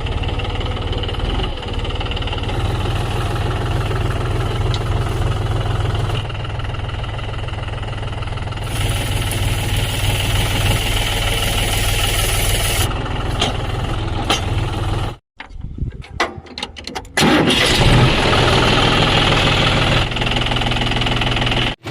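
John Deere tractor's diesel engine running steadily under load at low speed, pulling a digger through the soil. The sound drops out almost completely about two-thirds of the way through, then comes back louder.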